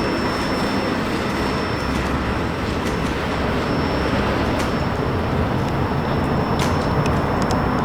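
Freight train rolling past with a steady, even rolling noise of wheels on rail, a few faint ticks near the end.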